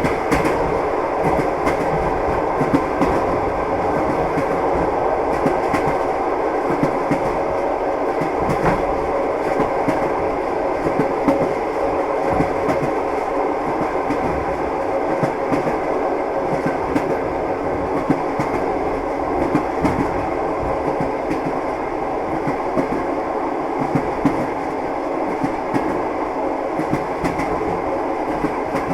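Train wheels running over the rails: a steady rumble broken by recurring clacks of the wheels over the rail joints.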